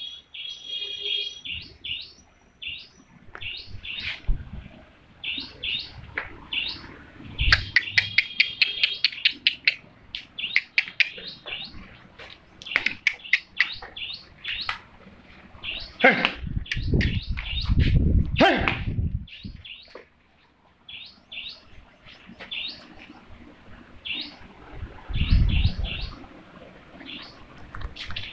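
Small birds chirping over and over in short, high chirps, with a fast run of them near the start. Bursts of low rumbling noise come in the middle and near the end.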